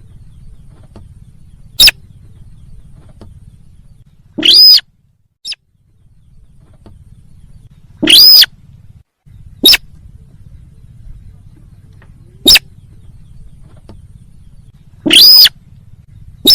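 Recorded lure call of the sintar bird, played loud: about seven calls a few seconds apart, some short and sharp, some longer arched notes of about half a second, over a faint low hum.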